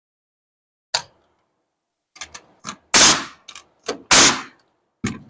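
Knocks and clatter from work on a wall frame: a click about a second in, a few light taps, then two loud sharp bangs a little over a second apart, each with a short noisy tail, and another knock near the end.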